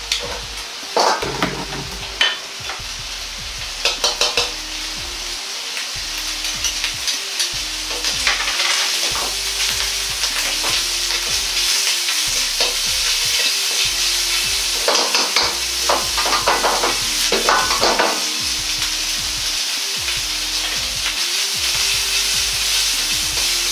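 Bacon and garlic sizzling in oil in a wok, the hiss growing louder about a third of the way in. A metal ladle scrapes and knocks against the wok a few times near the start and in a cluster about two thirds of the way in.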